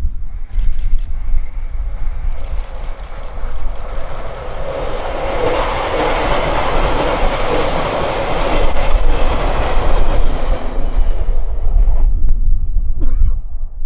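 A train passing on the track: its noise builds over a few seconds, is loudest midway and fades away near the end.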